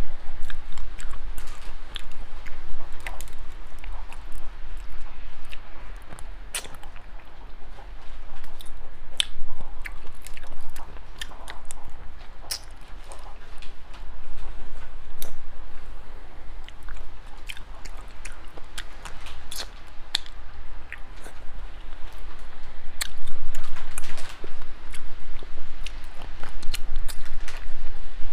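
A person chewing and biting close to the microphone while eating small sea snails, with many short sharp clicks at irregular intervals.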